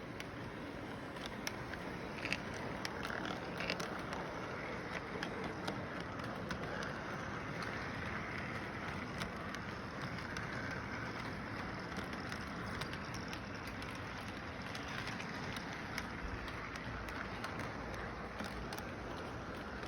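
A train rolling along its track: a steady running noise with many irregular clicks.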